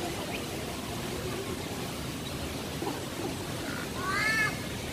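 Steady background hiss of the aviary with a faint low murmur; about four seconds in, a single short bird call, a ringing note with overtones that rises and falls.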